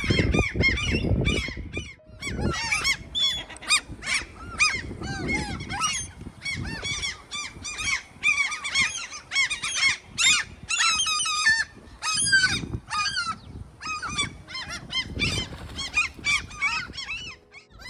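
A flock of great black-backed gulls calling, many short harsh overlapping calls without a break. Gusts of wind rumble on the microphone every few seconds.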